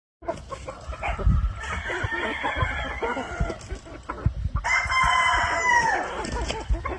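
Roosters crowing and clucking. One loud crow lasts about a second and a half near the two-thirds mark, its pitch dropping at the end.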